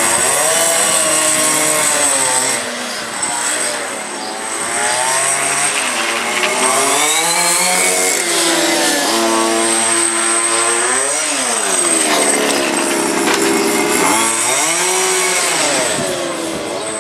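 Engines of 1:5 scale FG RC race cars, small two-stroke petrol engines, revving hard with their pitch swooping up and down again and again as the cars accelerate and brake. More than one engine is heard at once.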